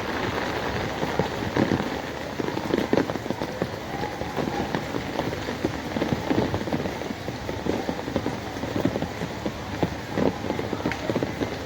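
Steady rain falling on hard surfaces: a constant hiss with many separate drops hitting close to the microphone.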